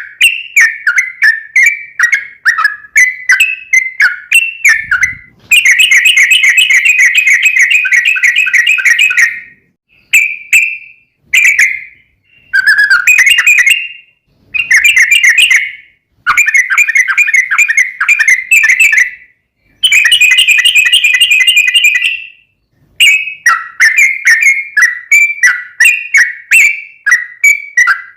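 Yellow-vented bulbul (trucukan) singing loudly: quick, chattering whistled phrases alternating with long rapid rolling trills, the 'ropel panjang' run, several times with brief pauses between.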